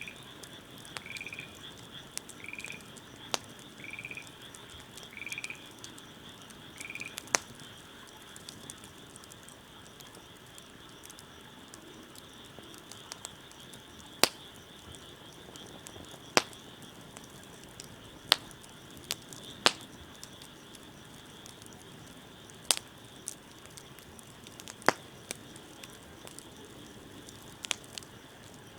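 A wood fire crackling, with sharp single pops every second or two. A frog calls in short repeated croaks, about one every second and a half, for the first seven seconds. A steady high-pitched chorus runs underneath.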